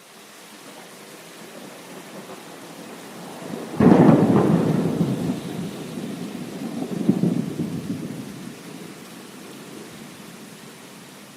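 Thunder over steady heavy rain: a low rumble builds, breaks into a sudden loud clap about four seconds in, then rolls and fades, with a second swell of rumble a few seconds later.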